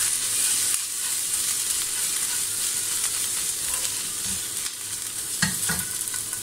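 Ginger-garlic paste sizzling steadily in desi ghee in a nonstick frying pan on a very low flame, stirred with a spoon.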